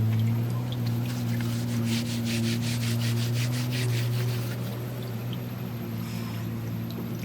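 A backhoe loader's diesel engine running steadily at idle, with a fast run of rhythmic rasping strokes, about five a second, over it for a few seconds in the middle.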